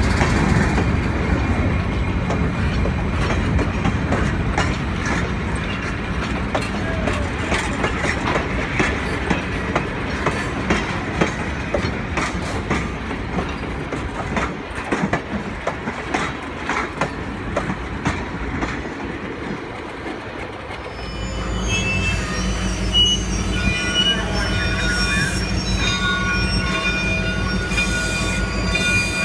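Slow-moving train of freight cars and cabooses rolling past, steel wheels clicking over the rail joints. About two-thirds of the way through the sound changes to a steadier low rumble with thin, high, steady squealing tones from the wheels.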